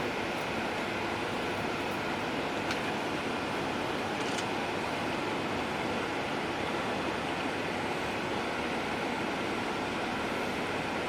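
Steady road and engine noise inside a moving bus cabin, with a couple of faint clicks.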